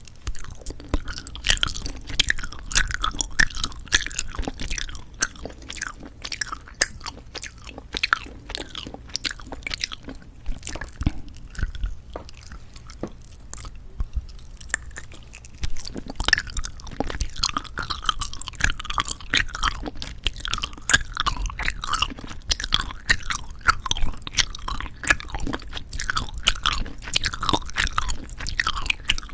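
Close-miked chewing of jelly candy: wet, squishy smacking with small crunches, thick and irregular throughout, easing off for a few seconds around the middle.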